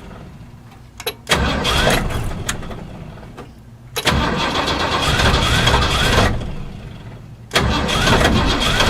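1978 Ford Bronco engine being cranked over and over on a cold start: three start attempts, each beginning suddenly and fading away over a couple of seconds, with a click just before the first. The engine is hard-starting after sitting for months and does not yet keep running.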